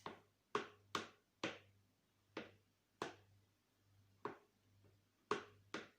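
A tablespoon tapping sharply against a dish about eight times at uneven intervals, each tap ringing briefly, as flour is knocked off the spoon.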